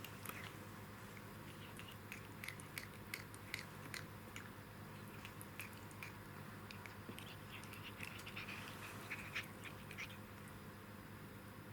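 A cat playing with toy mice: irregular small clicks and soft scuffles, thickest in the middle of the stretch, over a faint steady hum.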